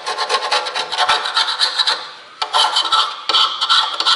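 Sharpened old engine valve scraping old sealant and gasket remains off an engine oil pan's flange: fast rasping strokes, with a short break about two seconds in.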